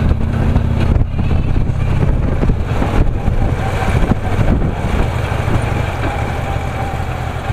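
Harley-Davidson Ultra touring motorcycle's V-twin engine running steadily on the road, its low engine note under a constant hiss of wind and road noise.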